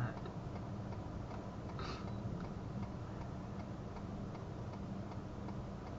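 Steady, even ticking a few times a second, typical of a car's turn-signal flasher, over a low steady hum.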